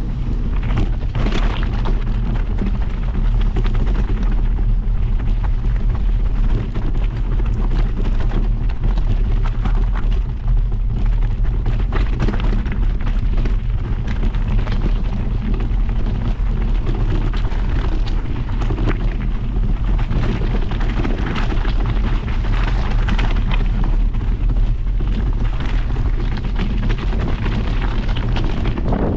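Loud, steady wind buffeting on the microphone from moving fast downhill: a continuous low rumble with a hiss over it.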